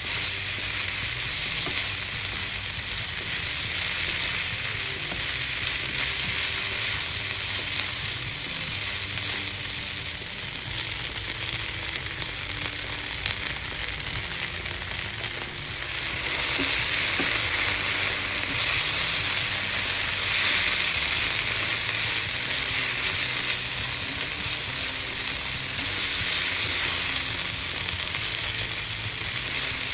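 Spaghetti, onion and ground pork sizzling in a hot nonstick frying pan while being stirred and tossed with a silicone utensil. The sizzle gets louder a little past halfway, once ketchup is on the noodles.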